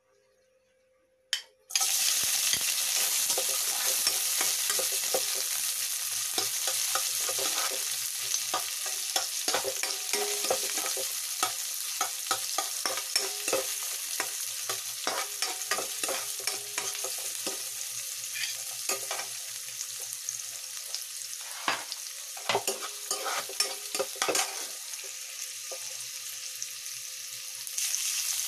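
Onion and garlic sizzling in hot oil in a wok as they are sautéed, with a spatula scraping and tapping against the pan. The sizzling starts suddenly about two seconds in and gets louder again near the end.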